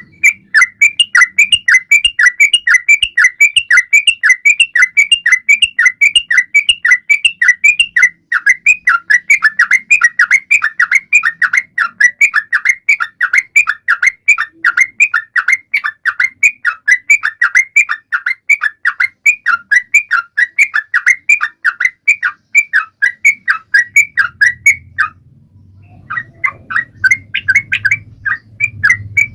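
Yellow-vented bulbul singing vigorously in a rapid, continuous run of short chirping notes, about four a second. The song breaks off briefly near the end and then resumes.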